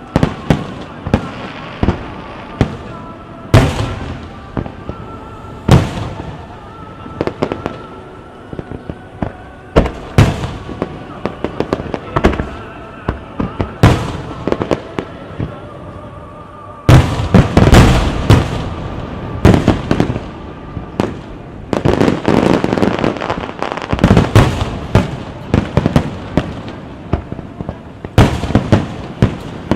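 Starmine fireworks: aerial shell bursts going off in rapid succession, thickening into a dense, louder barrage about 17 seconds in, over music playing from the venue's loudspeakers.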